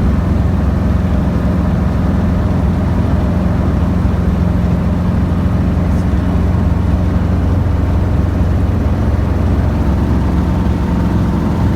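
Small training helicopter's engine and rotor running with a steady, unbroken drone.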